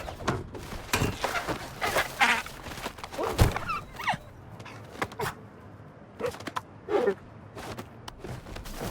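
Cartoon sound effects: a string of knocks and thuds, the loudest about three and a half seconds in, mixed with short animal-like vocal sounds that bend in pitch.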